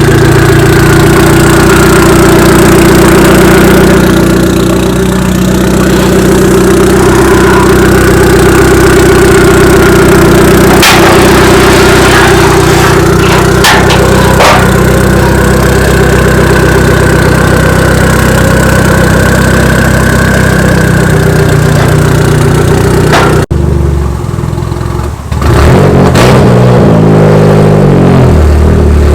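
Turbocharged Mazda Miata four-cylinder engine idling steadily while it warms up, with a few sharp clicks. About 23 seconds in the sound cuts off abruptly, and near the end it comes back in with a pitch that steps up and down.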